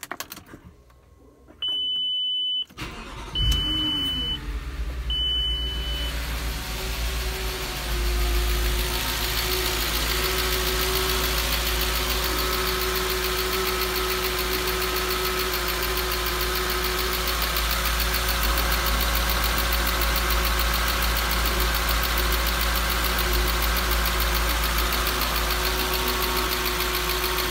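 Audi S4's 4.2-litre BBK V8 starting about three seconds in, after a general engine repair, then idling steadily. Three short electronic beeps from the dashboard sound around the start.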